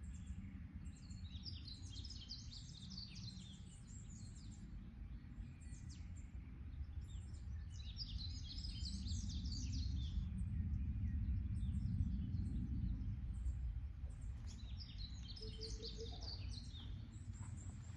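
Songbird chirping in three bouts of rapid, high-pitched notes, over a steady low background rumble.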